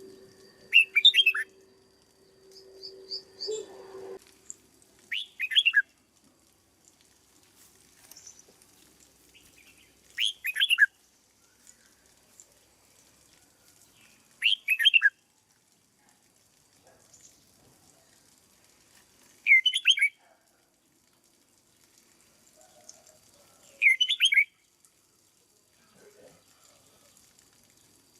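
Red-whiskered bulbul singing short, loud phrases, six of them spaced about four to five seconds apart. A low steady hum runs under the first phrase and stops about four seconds in.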